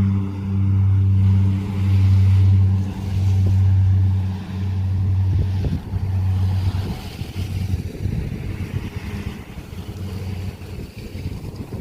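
Seaplane taking off: the engine and propeller run with rushing wind and water, and the sound fades steadily over the second half as the plane moves away.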